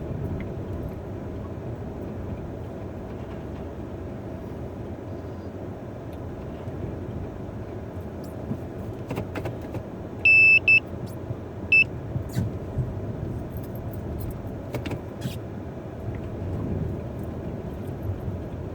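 Car engine running under load in a low gear, heard from inside the car, as it pulls up a snow-covered hill. Two loud electronic beeps sound about ten and twelve seconds in, the first about half a second long, the second short.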